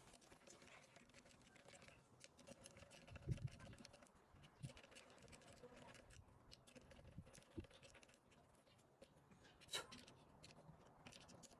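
Near silence with faint scattered clicks and light knocks, a short low thump about three seconds in and a sharp click near the end.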